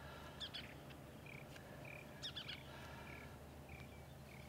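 Faint bird calls over quiet outdoor background: a handful of short chirps and whistled notes, some in quick descending runs, scattered through the stretch.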